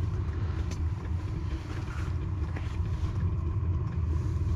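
Buran snowmobile engine running steadily, a low rumble.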